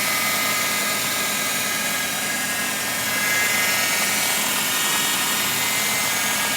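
Fiat Tipo 1.6ie engine compartment running with a steady whirring whine. This is the unexplained engine-bay noise that mechanics link to the power steering, possibly its belt.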